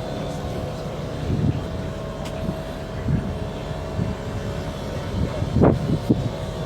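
Passenger ferry's engine running with a steady low rumble and a constant hum. A few short louder sounds break through, the loudest about five and a half seconds in.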